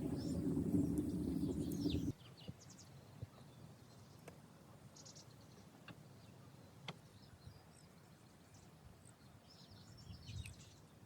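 A low rushing noise that cuts off abruptly about two seconds in, then quiet outdoor ambience with faint bird chirps and a few scattered sharp ticks.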